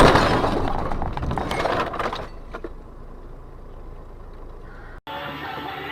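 The tail of a loud car crash: the impact noise fades over about two seconds with a few sharp knocks of debris, then a car's engine runs low and steady. About five seconds in it cuts off abruptly, and music begins.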